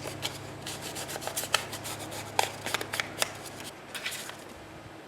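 Ink being dabbed and rubbed along the edges of a trimmed piece of paper: a run of quick, irregular soft taps and scuffs that thins out about four seconds in. A faint low hum underneath stops at about the same point.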